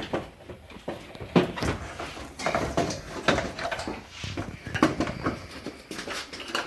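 Irregular knocks, clunks and light rattles of car body parts being handled and shifted as the front end assembly is eased off the car.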